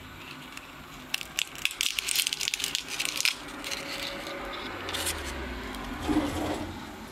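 Dry, papery paper wasp nest crackling and crunching as a utility knife cuts through it, a quick run of sharp crackles in the first few seconds, then softer scraping.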